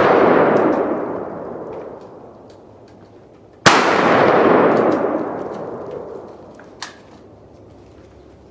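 Gunshots on a firing range, each followed by a long rolling echo that dies away over two to three seconds. One shot falls about midway, and another comes right at the end, with the echo of an earlier shot fading out at the start. A small sharp click sounds near the end.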